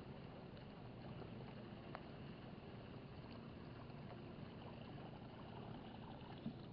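Faint, steady background hiss with a faint click about two seconds in.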